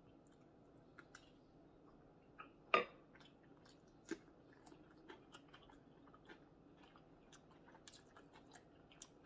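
Close-miked chewing and biting of food, with irregular small crunches and wet mouth clicks over a faint steady background; one louder crunch comes about three seconds in.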